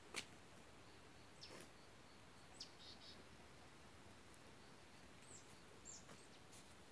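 Near-silent outdoor ambience with a faint steady hiss. A sharp click comes just after the start, then a few short, high bird chirps that slide downward are scattered through.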